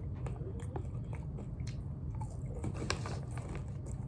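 Close-up chewing and crunching of a mouthful of birthday-cake-flavoured caramel popcorn, in irregular crunches over a steady low hum.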